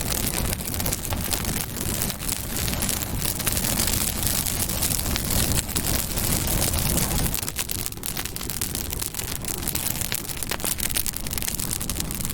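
Campfire burning: a steady hiss of flames dotted with many small, sharp crackles and pops from the burning wood.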